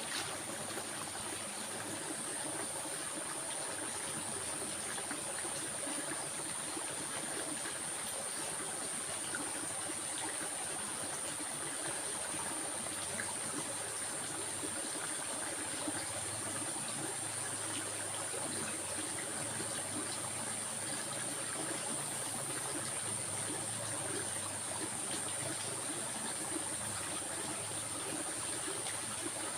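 Stream water flowing and trickling steadily, with a steady high-pitched insect drone above it.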